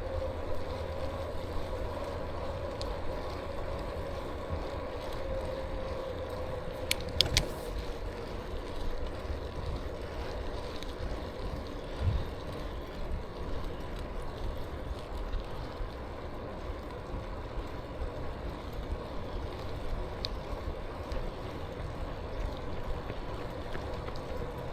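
E-bike riding along a paved trail: a steady motor whine over low tyre and wind rumble, with a couple of sharp clicks about seven seconds in.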